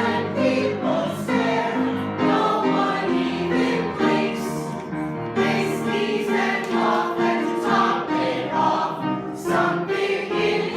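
A musical-theatre ensemble singing together in chorus, holding sustained notes that move in chords every half second or so.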